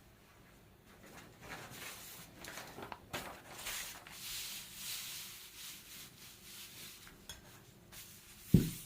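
A painting brush rubbing and scraping against a ceramic palette dish while mixing paint, in uneven strokes, with one low thump near the end.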